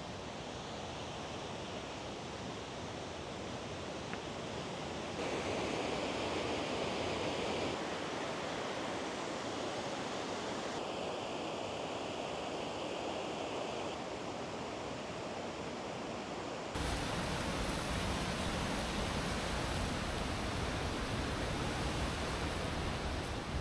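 Rushing river water, a steady noise that changes abruptly in level and tone several times.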